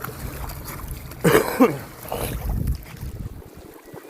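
Wind rumbling on the microphone, with two short, loud vocal sounds that fall in pitch about a second in, and fainter ones just after.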